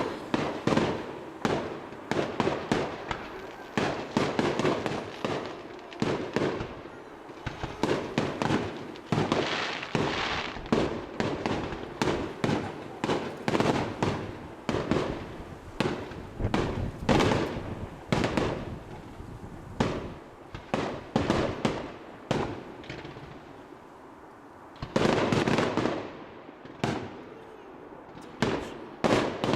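Fireworks display: shells bursting in rapid, continuous bangs, several a second, with a dense cluster of bursts late on.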